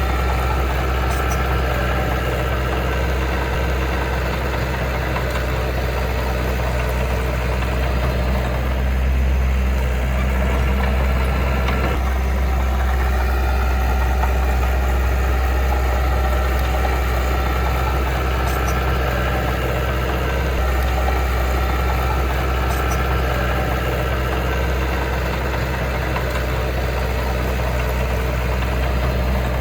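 Heavy earthmoving machine's diesel engine running steadily at a low, even speed, a deep drone with no marked revving.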